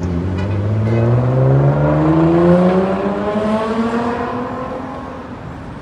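A motor vehicle accelerating past. Its engine note rises steadily in pitch for a few seconds, then fades away.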